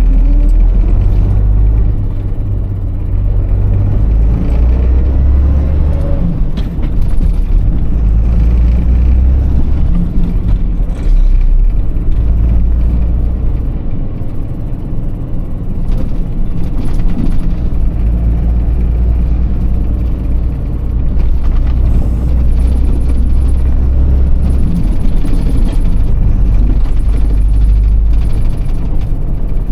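Iveco truck's six-cylinder diesel engine running on the road, a heavy low rumble whose pitch and level rise and fall as it pulls and eases off.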